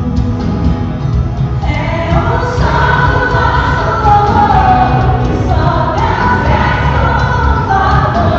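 A group of voices singing a gospel worship song over instrumental accompaniment with a heavy low end. The voices come in about two seconds in.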